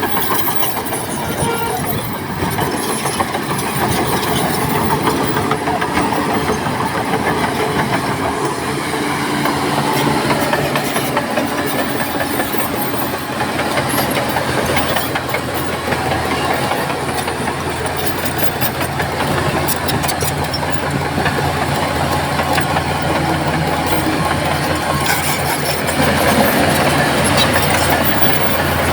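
Heavy diesel earthmoving machinery running, a crawler bulldozer's engine with the metallic clatter of its steel tracks. It gets louder near the end.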